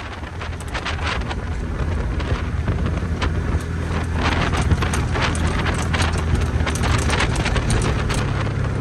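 A vehicle engine running with a steady low hum, with a quick irregular scatter of sharp clatters over it from about a second in until near the end.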